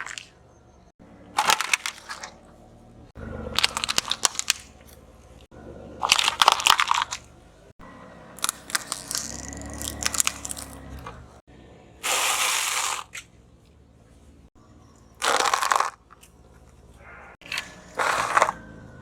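A run of short, separate crunching and crackling bursts, each about a second long and cut one after another: objects being crushed under a car tyre. A few of the bursts are smoother hissing.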